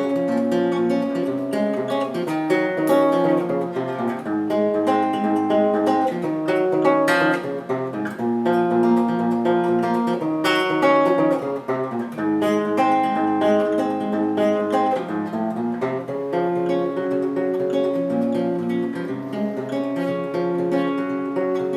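Acoustic guitar strummed steadily through the chord changes of an instrumental break, with no singing.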